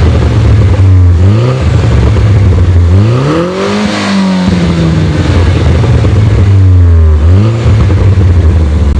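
Mini Coupe John Cooper Works turbocharged 1.6-litre four-cylinder engine and exhaust being revved three times: the note climbs sharply about a second in, again around the middle, where it peaks and falls back gradually, and once more near the end, holding steady in between.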